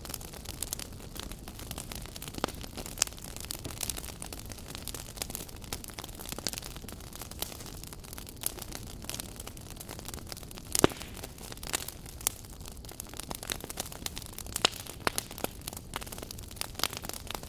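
Wood fire burning in a fireplace: a steady low rush of flame with frequent sharp crackles and pops, one louder pop about two-thirds of the way through.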